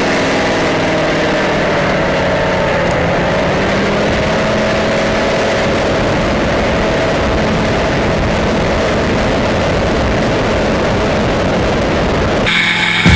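Motorcycle engine running steadily at a constant level, with a faint wavering hum. Near the end it cuts suddenly to music.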